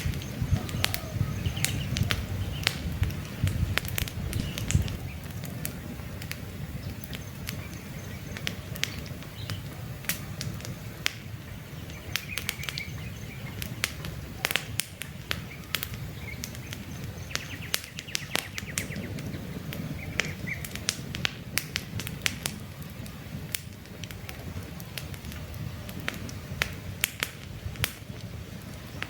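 Campfire burning, with frequent irregular crackles and pops from the logs over a low steady rumble of flames. Faint bird chirps come through now and then.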